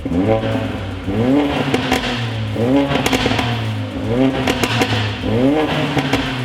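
Mercedes-AMG A45's turbocharged four-cylinder engine revved in short repeated blips, one about every second and a quarter, each rising and falling in pitch over a steady idle, through an exhaust with its resonator removed.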